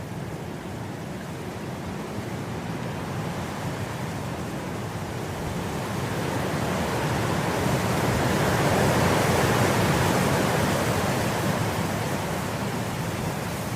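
Wind blowing through grass: a steady rushing that swells into a stronger gust about two-thirds of the way through, then eases off.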